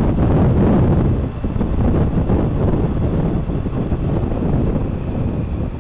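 Wind noise rushing over the microphone of a moving motorcycle, a steady, loud low rumble with engine and road noise underneath.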